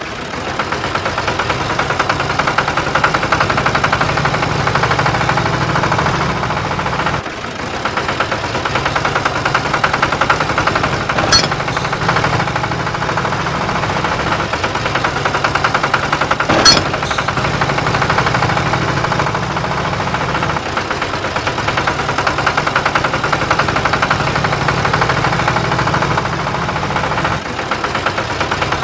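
A tractor-like engine running at a fast, even chug, with two sharp clicks midway.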